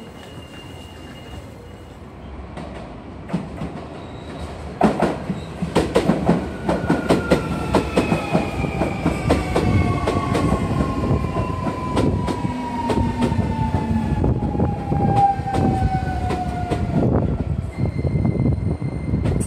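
An electric commuter train running into a station close by. Its wheels click over the rail joints, and the motor whine falls steadily in pitch as the train slows.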